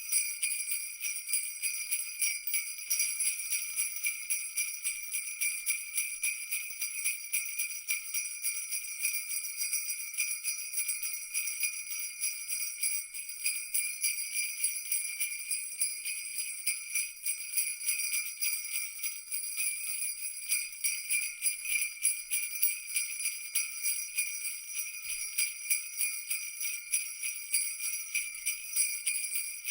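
Sleigh-type jingle bells shaking continuously in a fast, even jingle, with no break. The ringing is high and bright.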